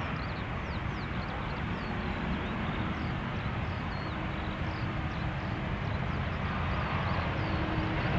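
Steady rushing rumble of a Boeing 787's jet engines on approach, slowly growing louder, with small birds chirping high above it.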